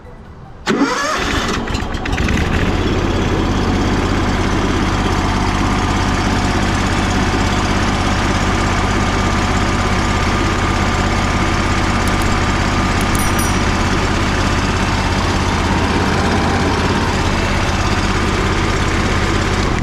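A Honda gasoline engine on a pressure washer starts under a second in, its speed rising briefly as it catches, then runs steadily, freshly serviced after a pump oil change. It cuts off right at the end.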